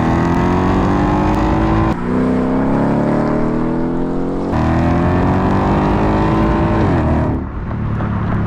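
Ford Mustang engine and exhaust revving up three times in a row, each rise in pitch broken off abruptly, then dropping back near the end to a lower steady note.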